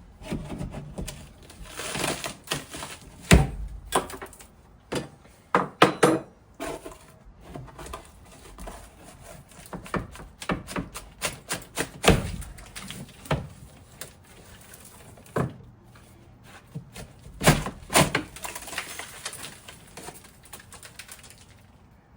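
Irregular knocks, clicks and thuds of hand work with tools and parts, sharp and uneven, the loudest coming about three and a half seconds in, around six and twelve seconds, and near eighteen seconds.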